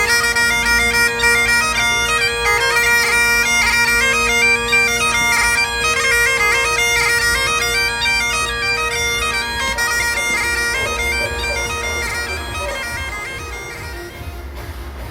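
Bagpipe music: steady drones held under a chanter melody that moves quickly from note to note, fading down over the last few seconds.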